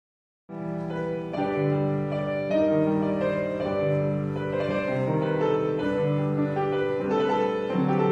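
Piano playing a barcarolle by a blind woman composer, beginning about half a second in with a melody of held notes over a sustained lower part.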